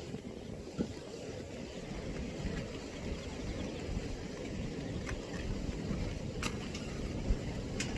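Strong gusty wind rumbling on the microphone, with a few light clicks in the second half.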